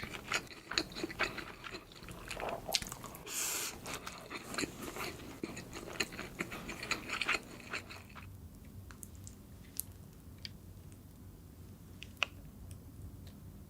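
Close-up eating sounds: a person chewing and biting food, with many quick wet clicks and crackles for about the first eight seconds, then only a few faint clicks.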